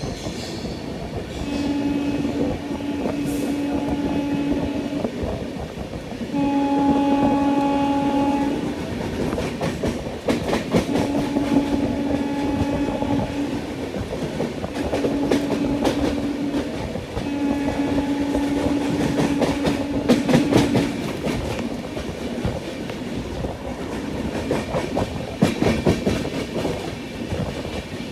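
A train's locomotive horn sounds in about five long, steady blasts, each two to four seconds long. Under it runs the steady rumble and clickety-clack of the coach's wheels going over rail joints.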